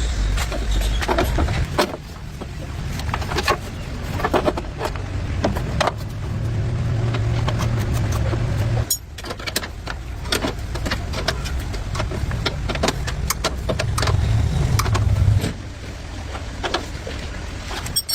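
A motor running with a low, steady hum that shifts and breaks off abruptly several times, mixed with frequent sharp clicks and knocks.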